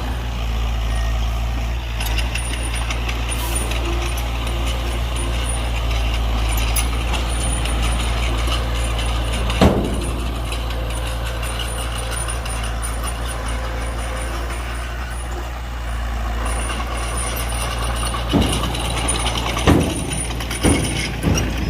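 Heavy diesel engine of construction machinery running steadily. One sharp burst comes about ten seconds in, and three or four more come close together near the end.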